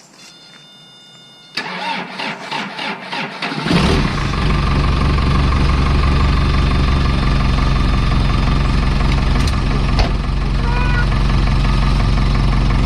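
Isuzu 4BD1T four-cylinder turbo diesel cold-started below freezing: after a brief high steady tone, the starter cranks in pulses for about two seconds. The engine then catches easily and settles into a steady diesel idle.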